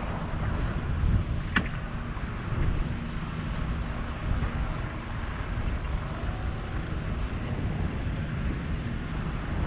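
Boat engine running with a steady low hum and wind buffeting the microphone; a single sharp click about one and a half seconds in.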